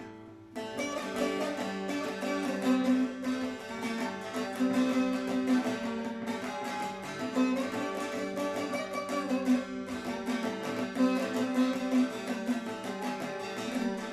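Bağlama (Turkish long-necked saz) played solo with quick, dense plucking over a steady low drone, as the instrumental opening of a folk song. The playing comes in fuller about half a second in.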